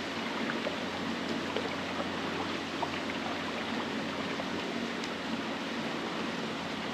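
Steady trickling, rushing water noise with a few faint ticks, such as water moving around a canoe on a lake.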